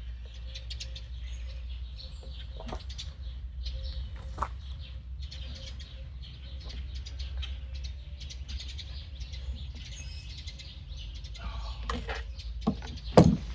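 Small clicks and handling noises as a rubber fuel-line grommet is worked into a Stihl chainsaw's fuel tank, with birds chirping in the background over a low steady hum. A sharp knock comes near the end.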